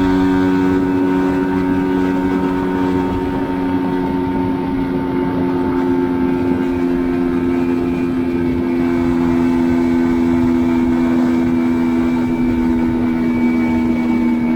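Mash Fifty's 49.9cc single-overhead-cam single-cylinder engine running at steady revs under way, its pitch drifting only slightly lower towards the end.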